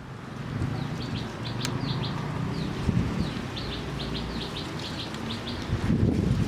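Small birds chirping in quick repeated series over a low rumble, with a single sharp click about one and a half seconds in.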